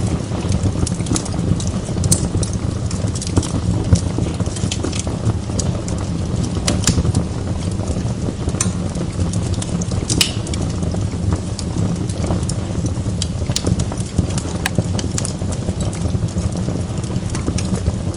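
Wood log fire burning in a fireplace: a steady low rush of flames with frequent sharp crackles and pops scattered irregularly throughout.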